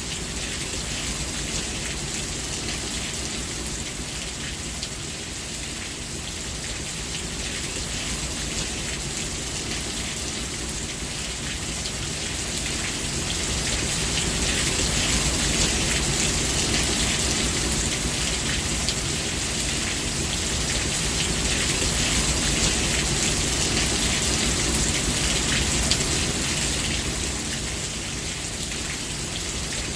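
Steady heavy rain with a dense patter of drops, swelling louder about midway and easing again near the end.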